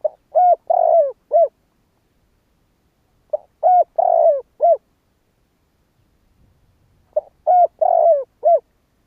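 Spotted dove cooing: three phrases about three and a half seconds apart, each four coos, two short ones, a longer one, then a short one, every note dropping in pitch at its end.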